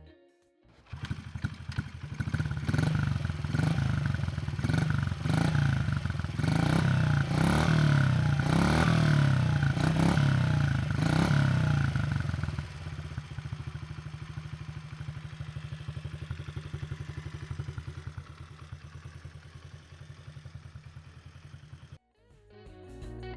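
2022 Honda CRF50F's small air-cooled single-cylinder four-stroke engine starting up about a second in and being revved repeatedly, its pitch rising and falling with each blip of the throttle. It then settles to a steady, quieter idle and cuts off shortly before the end.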